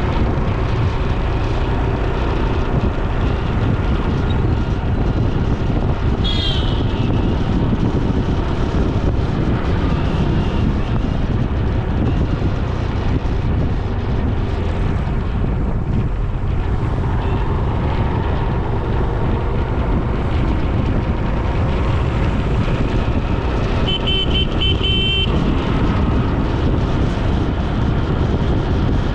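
Steady rumble of wind and road noise while riding along a road. A vehicle horn gives a short toot about a fifth of the way in, and a longer, stuttering horn blast sounds near the end.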